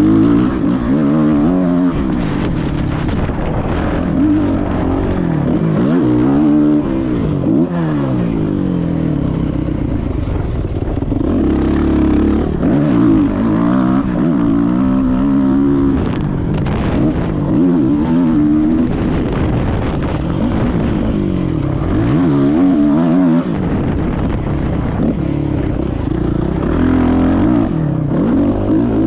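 Motocross bike engine revving up and dropping back again and again as the rider accelerates, shifts and slows around a dirt track.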